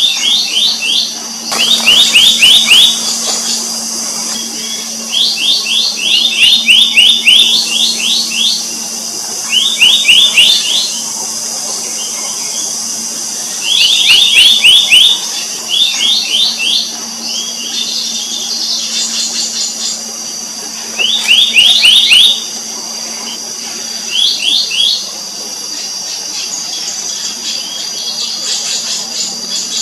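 Black-naped monarch calling: bursts of quick, rising whistled notes, each burst about a second long and repeated every couple of seconds. A steady high-pitched hiss runs underneath.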